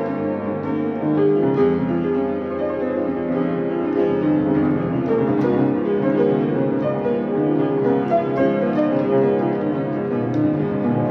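Solo piano improvisation: a continuous flow of notes and sustained chords, weighted in the low and middle register.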